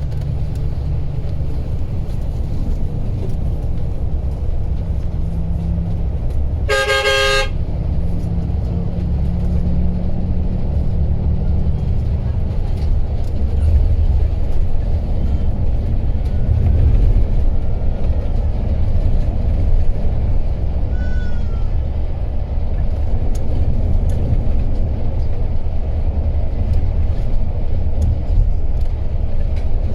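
Steady low rumble of a moving coach heard from on board, with one short horn blast about seven seconds in.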